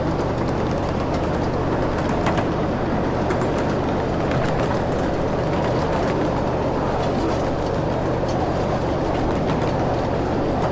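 Ride-on park train running along its track, with a steady rumble of the wheels and cars and a few sharp clicks and clacks from the rails.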